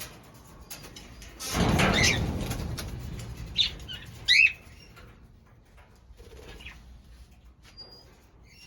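Budgerigar wings flapping in a loud fluttering burst lasting a second or so, followed by a couple of short budgie chirps.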